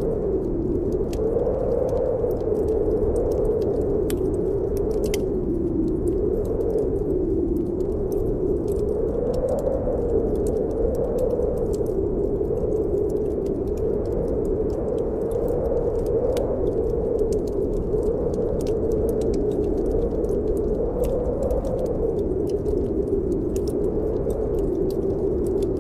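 Snowstorm wind howling steadily, its pitch slowly wavering up and down, mixed with a wood fire in a fireplace crackling in many small, sharp pops.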